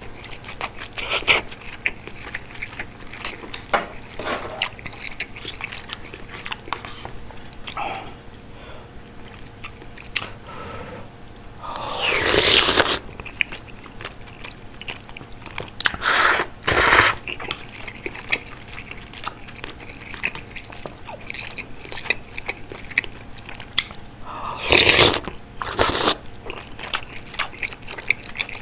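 Close-miked eating of bulgogi hot pot: wet chewing with a steady run of small mouth clicks and smacks, broken three times by louder, longer noisy stretches.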